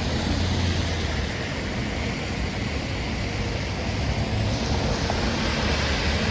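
Steady rushing noise of tropical-storm wind and rain, with a deep low rumble of wind buffeting the microphone.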